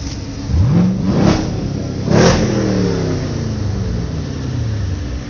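Sports car engine revved hard twice, each rev peaking with a sharp crack, then the revs falling back slowly to idle.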